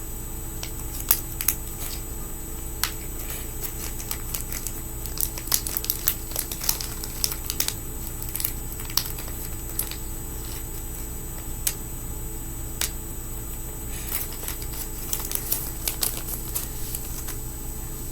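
Small, irregular clicks and taps of fingerboard parts being handled while wheels are worked onto the trucks, over a steady faint hum.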